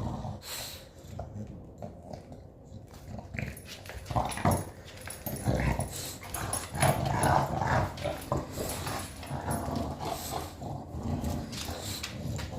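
A puppy playing with a new toy, making short, irregular dog noises off and on.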